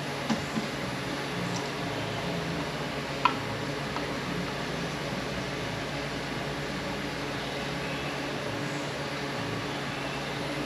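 Steady mechanical hum of a shop fan or air handler, with a few light clicks and taps of tools or parts being handled, the sharpest about three seconds in.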